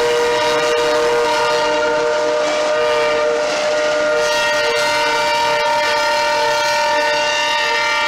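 Train air horn sounding one long held chord of several notes.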